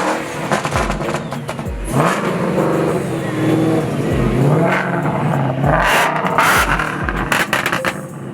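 Car engines revving, rising and falling in pitch, with louder bursts about six seconds in, under background music.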